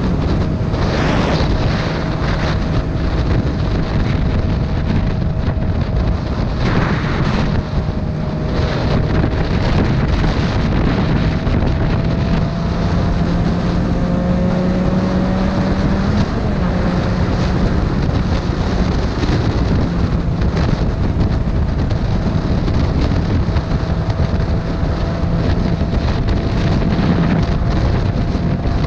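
Motorcycle engine running at a steady cruise under heavy wind rush on the microphone, its note drifting slightly up and down.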